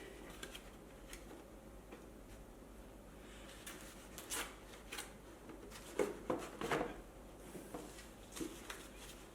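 Scattered clicks, knocks and rubbing of parts being handled as a wheel is worked into an electric unicycle's shell, with a cluster of louder knocks about six to seven seconds in.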